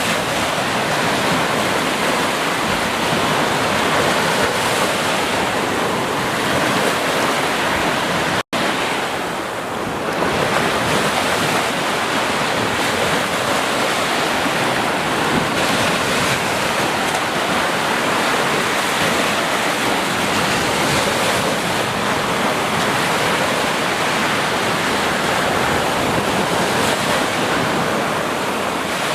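Ocean surf washing steadily onto a beach, a continuous rushing sound. It cuts out abruptly for an instant about eight seconds in, then resumes.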